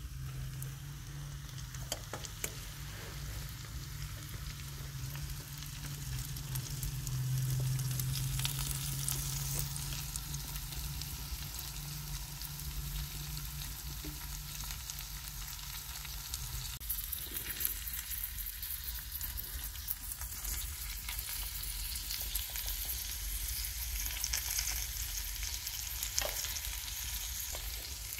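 Okra sizzling as it fries in oil in a metal pan, with the spatula scraping and clicking against the pan as it is stirred. A low steady hum underneath stops about two-thirds of the way through.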